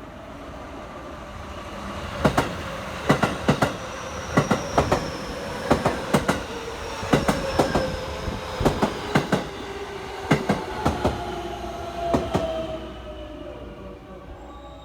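A train rolls past at close range, its wheels clacking over the rail joints in quick pairs of sharp strikes for about ten seconds. A motor whine falls slowly in pitch throughout, and the clacks stop about two seconds before the end.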